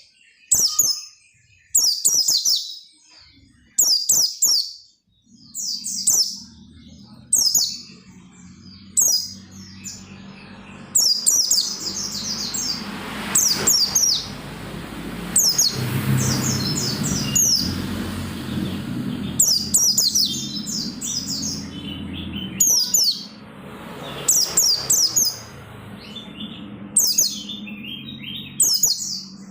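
White-eye (pleci) singing in short, loud bursts of rapid high, sliding notes, one phrase every second or two. Under it, from a few seconds in, a low steady hum swells in the middle and fades again.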